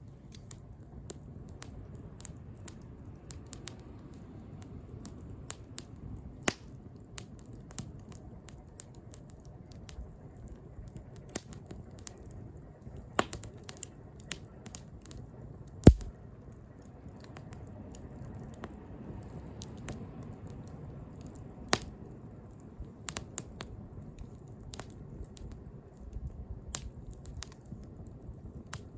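Bonfire burning: wood crackling with irregular sharp pops over a low steady rumble of flames, one pop much louder than the rest about halfway through.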